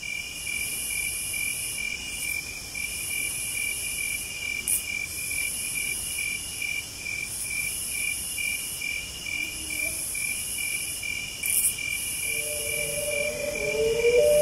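Crickets and other insects chirping: a steady pulsing chirp about twice a second under a higher, shrill buzz that comes in spells of a second or so. Near the end, lower held tones come in.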